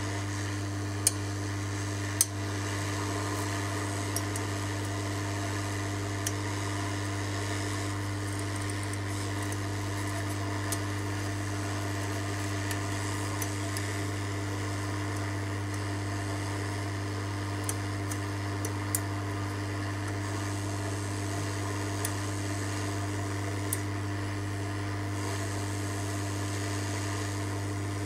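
Steady low electrical hum with a few short, sharp clicks scattered through it, two louder ones within the first few seconds.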